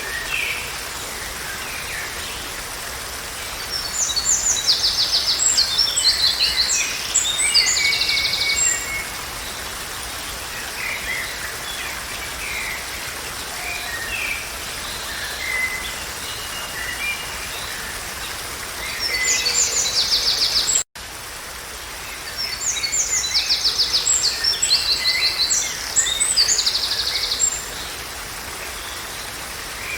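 Songbirds singing in bursts of fast trills and chirps over a steady, even hiss. About two-thirds of the way through there is a brief dropout, and the same song passage repeats: a looped recording.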